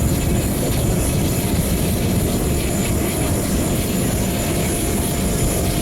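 Steady, loud jet engine noise from the Russian Knights' twin-engine fighter jets during their display.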